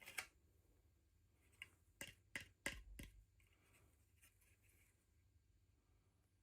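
Faint handling sounds from unboxing small toys: a few light clicks and taps, clustered about one and a half to three seconds in, as small pieces or packaging are handled.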